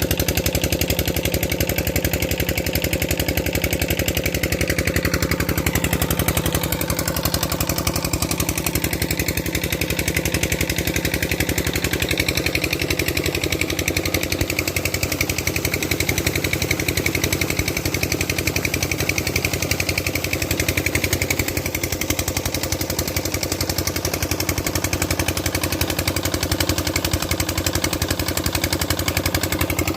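Tubewell diesel engine running steadily, with a fast, even chugging.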